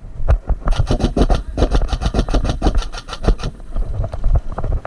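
Airsoft gun firing a long full-auto burst, about ten shots a second for close to three seconds, over low rumbling handling noise.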